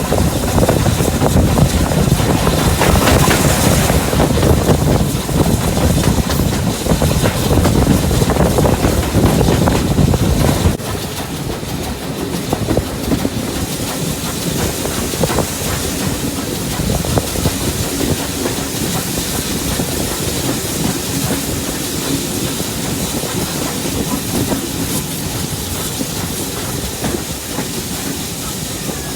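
Heritage railway train running along the line, with wheels clattering over the rails and a hiss. The sound drops suddenly to a quieter level about eleven seconds in.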